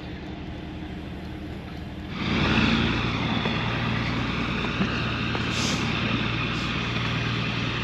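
Heavy diesel truck engine running, growing louder about two seconds in and then holding a steady drone.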